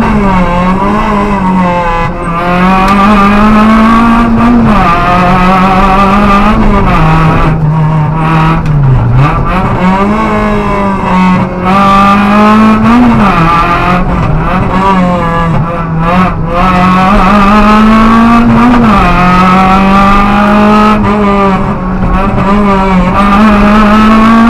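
Renault Clio Williams' 2.0-litre sixteen-valve four-cylinder engine running hard at high revs during a slalom run, heard from inside the cabin. The revs dip briefly and climb again every few seconds.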